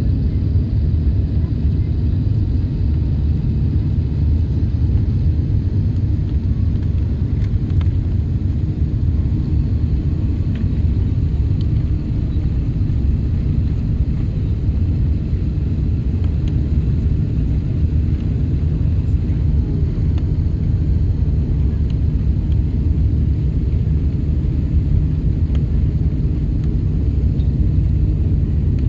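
Steady low rumble of engines and rushing air heard inside the passenger cabin of an Airbus A380 airliner, unchanging throughout.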